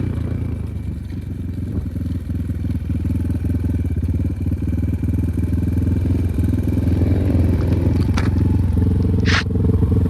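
Enduro motorcycle engine running steadily at low revs, just after easing off a rev. A brief high-pitched sound comes near the end.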